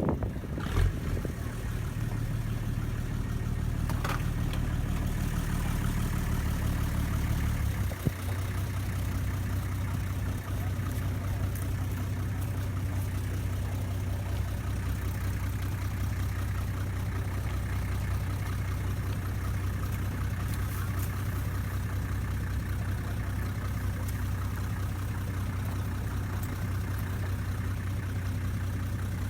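A ferry boat's engine running steadily with a low hum; about eight seconds in its note settles lower, as if throttled back.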